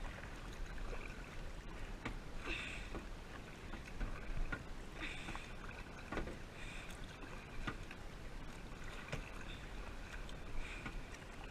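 Kayak paddle dipping and splashing in the water, a splash of the blade every two to three seconds, with small drips and knocks between strokes.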